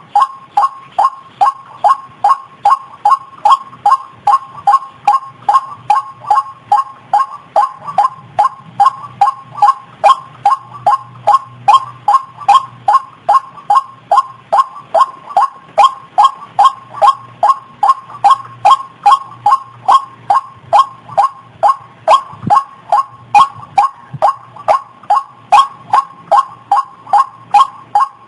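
White-breasted waterhen (ruak-ruak) call played as a bird-trapping lure: a loud, even run of short, downward-slurred notes repeated about two to three times a second without a break.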